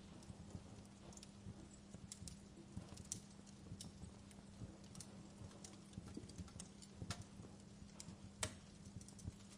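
Wood fire crackling in a fireplace: irregular sharp pops and snaps, a few louder ones, over a faint steady hum.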